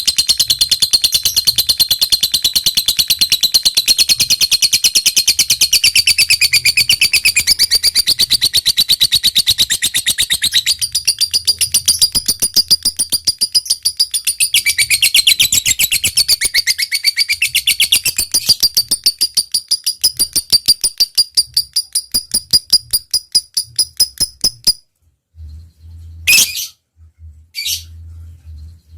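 Lovebird giving the long 'ngekek' chatter prized in a singing (gacor) bird: a rapid, unbroken run of high, sharp repeated notes lasting over twenty seconds, slowing toward the end before it stops. A few single short calls follow near the end.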